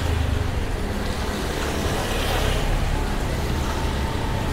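Steady street traffic noise, a low rumble of vehicles with an even hiss over it.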